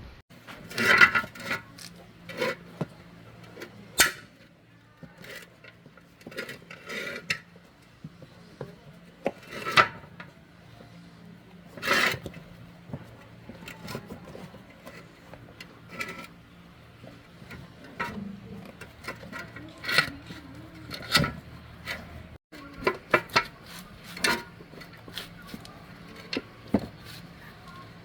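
Irregular clinks, knocks and scrapes of metal tools and parts being handled during machine repair work, over a faint low hum.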